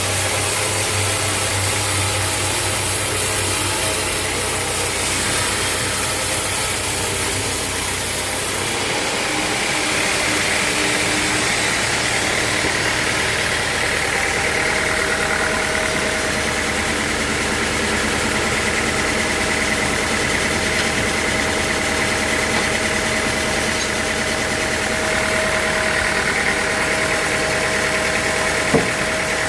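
Sawmill machinery running steadily, a mechanical hum with a steady whine; about nine seconds in the low hum drops away and a higher whine comes up, and there is one sharp click near the end.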